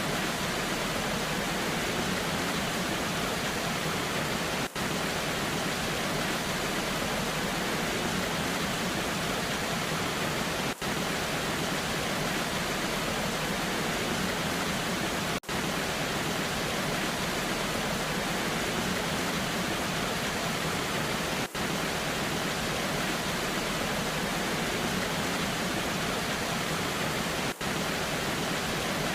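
Waterfall in the rain: a steady, even rush of falling water, with a very brief dip in level every five or six seconds.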